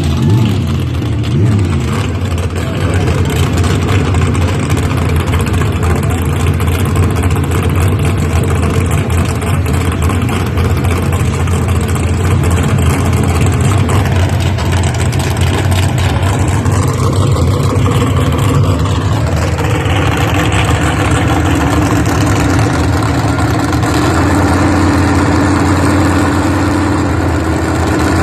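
Mud truck engine running loud and steady, with a rough, rumbling note throughout.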